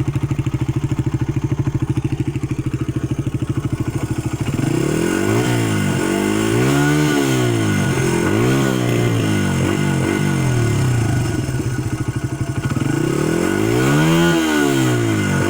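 Honda XR80R's 80cc four-stroke single idling evenly, then revved repeatedly from about four and a half seconds in: a series of quick throttle blips, each rising and falling back, with the longest rev near the end.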